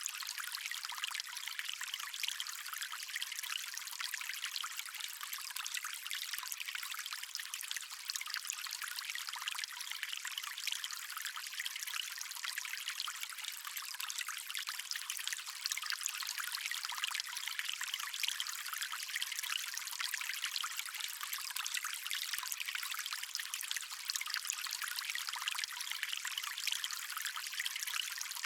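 A stream of water running steadily, a continuous thin, hissy rush with almost no low rumble.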